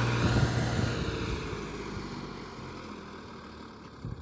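Tractor engine running, its steady hum breaking off about half a second in and the noise then dying away over the next few seconds.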